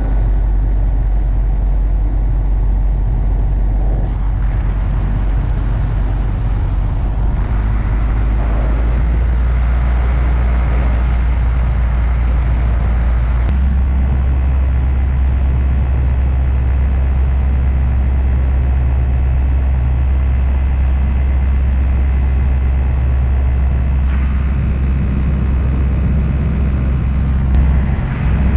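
Paramotor engine and propeller running steadily in flight, a loud low drone whose pitch steps up about thirteen seconds in as the throttle changes.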